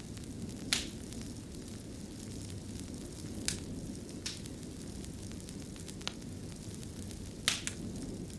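Wood fire crackling in a stone fireplace: a steady low rumble of flames with about six sharp pops at irregular intervals, two of them close together near the end.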